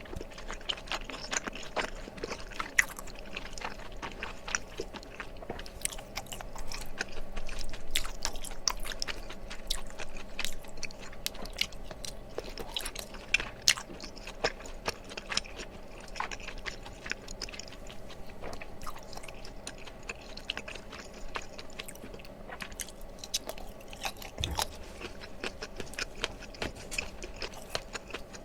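Close-miked eating: chewing and biting into chewy tteokbokki rice cakes, with irregular wet mouth clicks and smacks.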